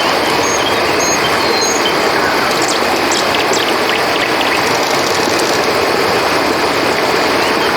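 Steady rushing of flowing river water, with short high chirps repeating faintly over it.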